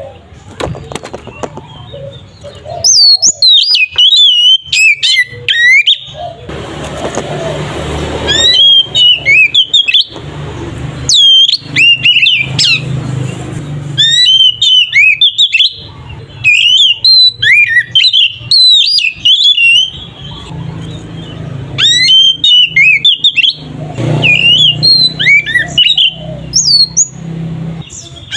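Oriental magpie-robin (kacer) singing in loud, rapid bouts of whistled notes that glide sharply up and down, each bout a second or two long with short pauses between, over a low steady hum.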